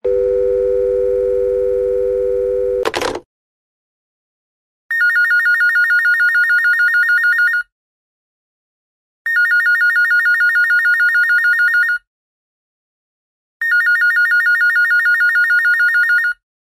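A steady two-note telephone line tone for about three seconds, cut off with a click. Then an electronic telephone ringer trills in three bursts of about three seconds each, warbling rapidly between two high notes, with short pauses between bursts.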